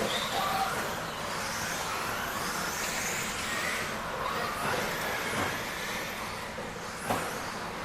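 Several 13.5-turn brushless electric RC stadium trucks racing, their motors and drivetrains whining up and down in pitch as they speed up and slow down over a bed of tyre and track noise. A sharp knock about seven seconds in.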